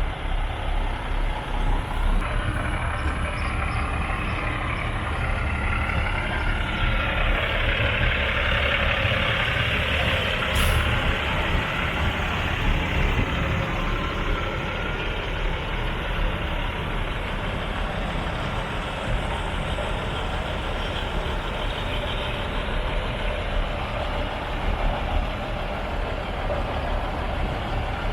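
Heavy trucks' diesel engines running, a steady, dense rumble.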